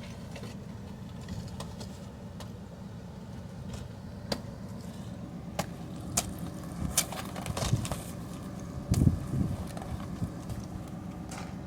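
A truck engine idling steadily, with scattered sharp clicks and cracks and a louder thump about nine seconds in.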